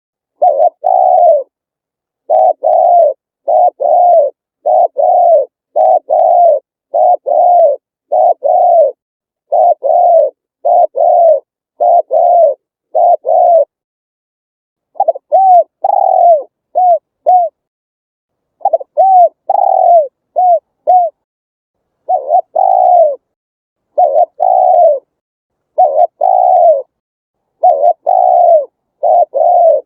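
Spotted dove cooing over and over in a repeated phrase of a few notes, each note bending in pitch, with two brief pauses partway through.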